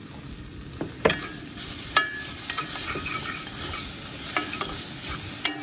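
Garlic, onions and peppers sizzling in a hot pan while being stirred, with a utensil scraping and knocking against the pan now and then.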